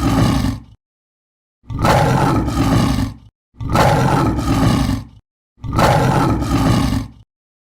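Lion roaring: the end of one roar, then three more, each about a second and a half long with short pauses between, deep and rough.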